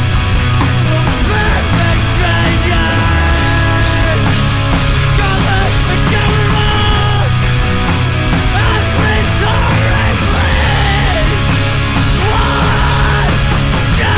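Loud punk rock played by a full band, with a steady driving bass and dense guitars.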